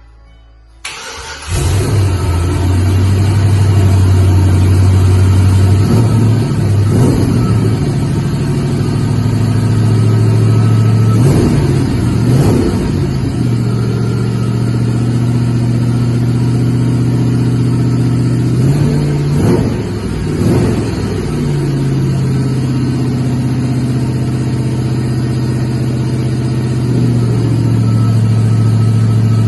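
Rebuilt 1952 Chevrolet pickup's engine running, its pitch stepping up and down with brief revs. The sound cuts in abruptly about a second in.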